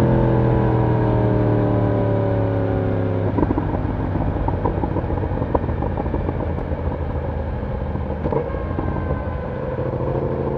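Yamaha YZF-R1 inline-four engine and exhaust, revs falling steadily as the bike slows. After about three seconds it settles to a low-rev idle with small irregular crackles and ticks, and near the end the revs begin to climb again.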